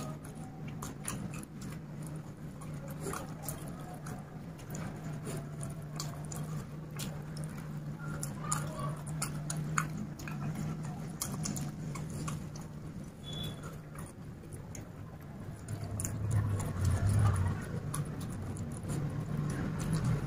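Close-miked chewing of chicken biryani eaten by hand, with scattered short wet mouth clicks and smacks, over a steady low hum. A louder low sound comes near the end.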